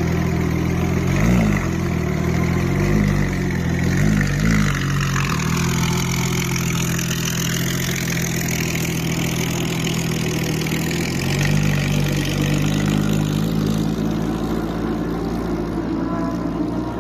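Porsche 911 GT3 RS (992)'s naturally aspirated flat-six with an Fi aftermarket exhaust, loud at idle. It gets a few quick throttle blips in the first five seconds, then settles back to a steady idle.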